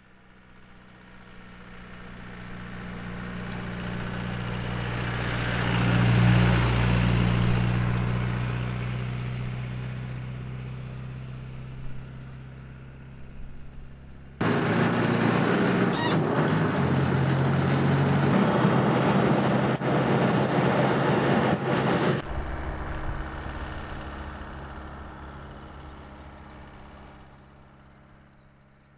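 Engine of a Land Rover 4x4 running as it drives by, swelling to a peak about six seconds in and fading. About halfway it cuts suddenly to a louder, rougher, closer engine and road noise for about eight seconds, then drops back to a steadier engine note that fades away near the end.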